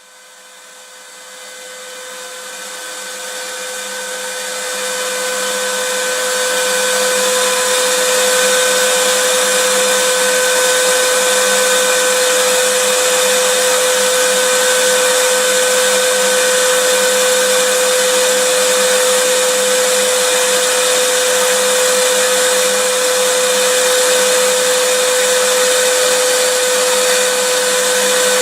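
Vacuum cleaner running: a steady motor whine over a loud rushing hiss, rising in level over the first six seconds or so, then holding steady.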